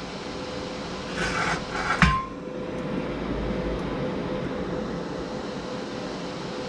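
Welding machine's cooling fan running with a steady hum. About a second in comes a brief hiss, ending in a sharp click at about two seconds.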